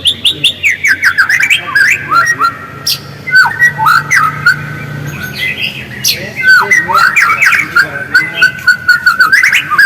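White-rumped shama (murai batu) singing a fast, unbroken run of sharp whistled notes, many sliding downward, mixed with quick clicking chatter.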